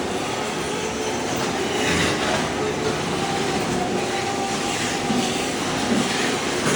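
Ride-on floor stripper running, its blade scraping thin-set mortar off a concrete slab: a steady grinding scrape with a faint steady whine, swelling briefly about two seconds in.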